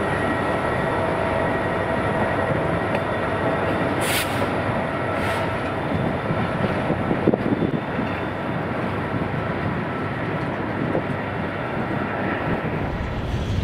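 Freight train rolling past close by: the steady rumble and clatter of steel wheels on rail as the trailing SD40-2 diesel locomotive gives way to covered steel coil cars. A faint steady whine is strongest in the first few seconds, two brief hisses come about four and five seconds in, and there is a sharp clank about seven seconds in.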